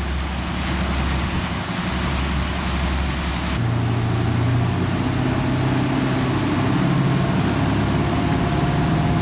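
Motorboat engine running under way with a rush of water and wind. About three and a half seconds in the engine note steps up as the boat speeds up again.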